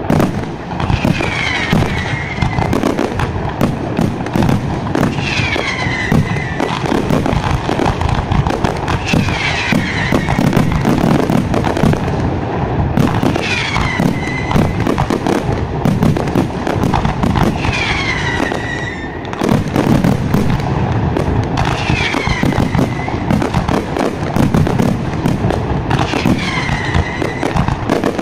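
Fireworks display: a dense, unbroken barrage of bangs and crackling. A falling whistle sounds about every four seconds over it.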